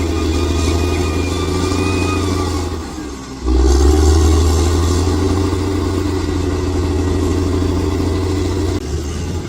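Bulldozer's diesel engine running steadily, dropping away briefly about three seconds in and then coming back louder.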